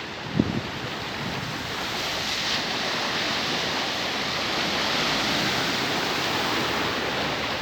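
Heavy rain pouring down in a steady hiss that grows a little louder over the first few seconds, with a single dull thump about half a second in.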